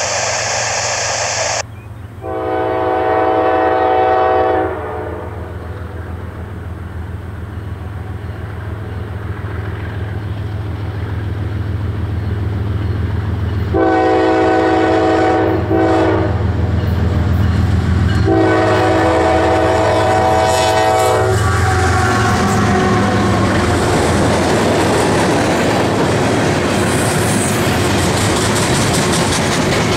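CSX freight train's diesel locomotive horn, a multi-chime air horn: one long blast, then after a pause a long, a short and a long blast, the crossing signal, over the low rumble of the approaching diesel. From about two-thirds of the way through, the locomotive passes and covered hopper cars roll by with a steady rumble and wheel clatter. A brief hiss at the very start.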